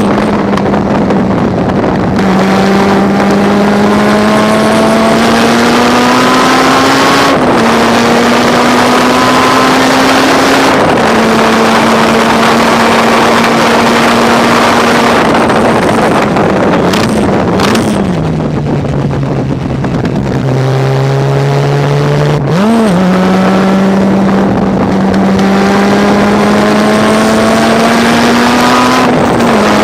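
Mazda RX-7 rotary race engine at high revs, its pitch climbing slowly along long flat-out stretches. It drops to a lower note for a while in the middle and gives quick throttle blips on downshifts, once about halfway through and again near the end.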